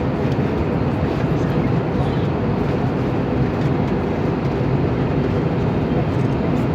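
Steady cabin noise inside an Airbus A320neo airliner in flight: a constant low rush of airflow and engine noise with a faint steady hum.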